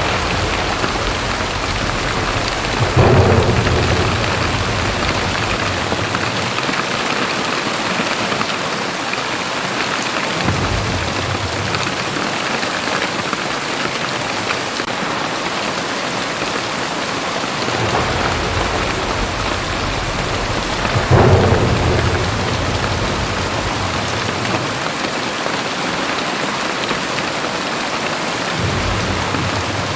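Very heavy rain pouring steadily, with a low rumble swelling up about three seconds in and again around twenty-one seconds in, and weaker low rumbling in between.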